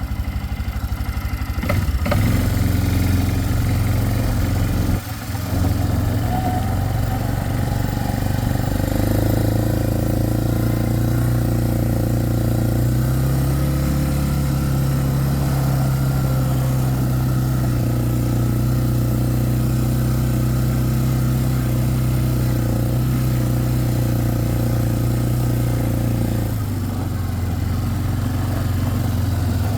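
Four-wheeler (ATV) engine running while riding, its pitch stepping up around nine and thirteen seconds in and easing off near the end, with a brief dip in level about five seconds in.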